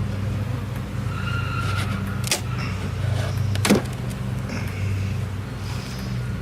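Steady buzzing hum of a honey bee colony around an open hive, with two sharp knocks, about two and three and a half seconds in.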